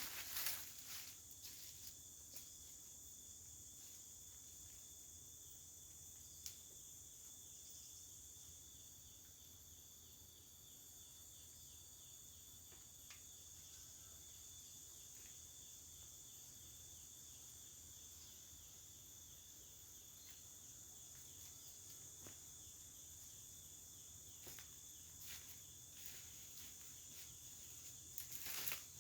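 Forest insects chirring steadily at several high pitches, with a few soft knocks: a cluster about a second in, one around six seconds in, and more near the end.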